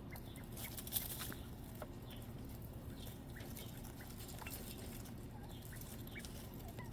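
Quail foraging, with a few faint short peeps and soft scratching and pecking clicks in the dirt.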